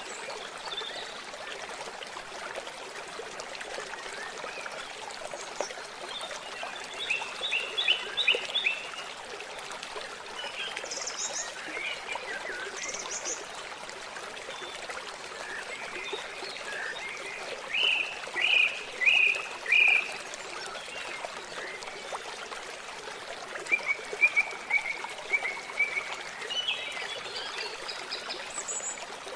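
Water trickling and running steadily, with birds calling over it in short runs of quick notes; the loudest is a run of four notes about two-thirds of the way through.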